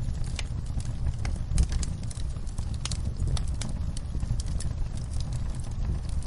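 Fire in a fireplace crackling, with irregular sharp pops and snaps over a steady low rumble, and one louder pop about one and a half seconds in.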